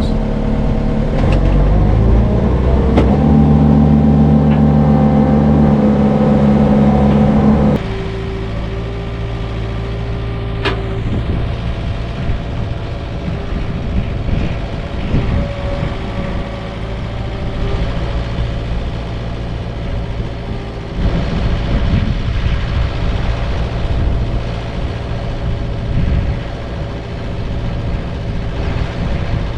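Komatsu mini excavator's diesel engine running hard as the machine is worked. About eight seconds in the engine note drops to a lower, steadier level, a sharp click follows a few seconds later, and the engine picks up again about two-thirds of the way through.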